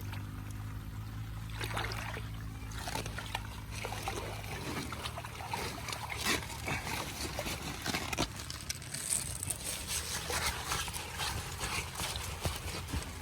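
Water draining out of a flooded rice paddy, trickling and sloshing, with irregular splashes and clicks starting about two seconds in.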